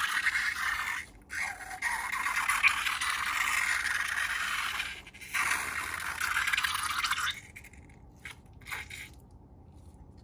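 A steady scraping, rattling noise from slime-making materials being handled. It breaks off briefly twice and stops about seven seconds in, followed by two small clicks.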